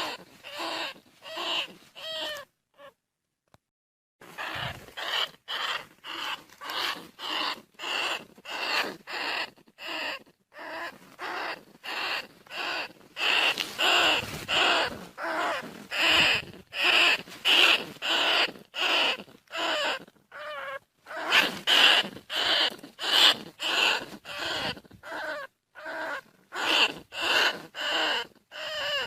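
Recorded bandicoot rat calls: short squeaking calls repeated about twice a second, with a pause of about two seconds near the start. The recording is meant as a lure call for catching the rats.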